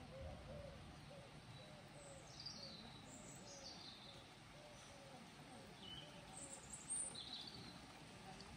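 Faint birdsong: a few high, falling chirps, over a soft low note repeated about twice a second that fades out about five seconds in.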